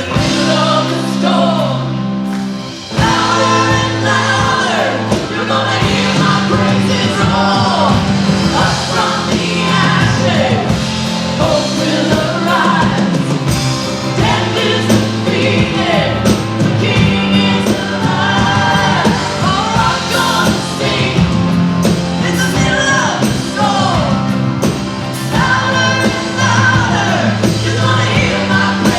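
Live worship band playing a rock-style song, with singing over guitar, bass and drums.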